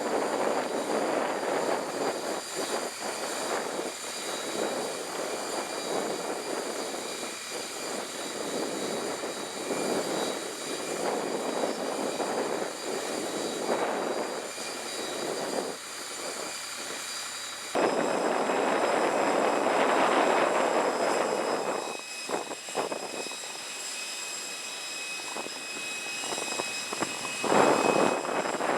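Jet aircraft noise: a steady high-pitched whine over an uneven rushing sound that swells and fades. About two-thirds of the way in the sound changes abruptly to a louder rush with a slightly different whine.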